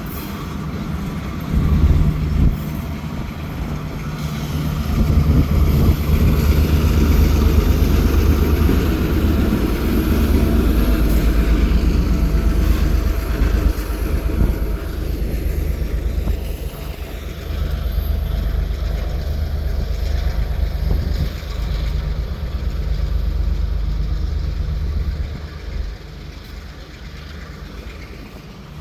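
A diesel-hauled train rolling past with a steady low rumble that grows louder a few seconds in and fades near the end.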